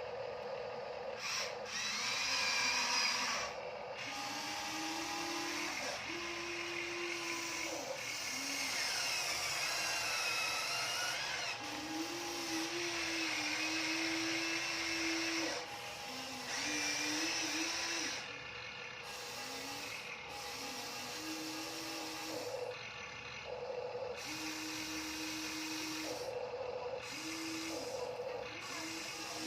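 Small electric motors of a Huina RC dump truck whirring in short runs of a second or two, starting and stopping again and again, with a higher wavering whine over them.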